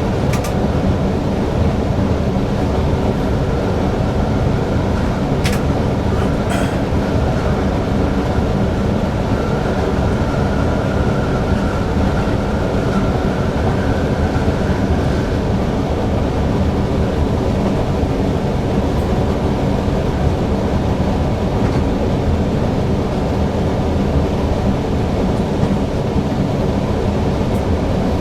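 Newag Impuls EN63 electric multiple unit running at speed, heard from the driver's cab: a steady rumble of wheels on rail and traction equipment, with a couple of sharp clicks about five and six seconds in.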